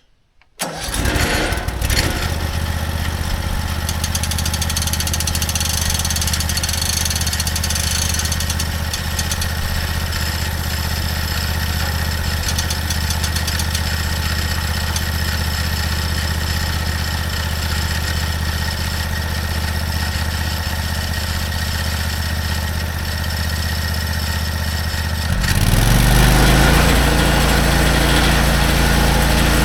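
Portable bandsaw mill's small gasoline engine starting about half a second in and running steadily. Near the end it speeds up with a short rising whine to a louder, higher-pitched run.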